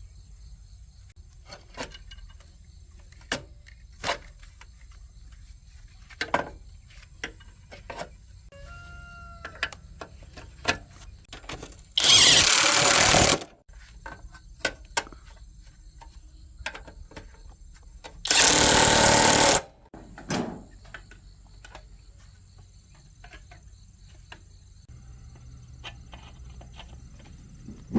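Workshop handling sounds: scattered short clicks and knocks, with two loud bursts of hissing about a second and a half long, about 12 and 18.5 seconds in, over a low steady hum.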